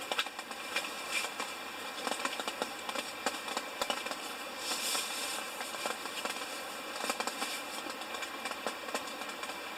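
Steady rain pattering, a dense spread of small irregular drop taps.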